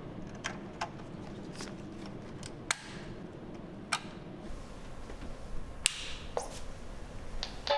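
About ten scattered sharp clicks and taps, with a low steady hum coming in about halfway.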